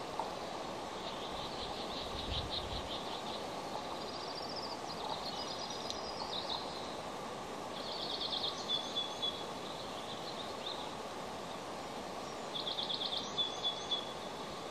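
High-pitched chattering bird calls in four bouts of rapid notes, the later ones ending in a short held note, over a steady low rushing noise.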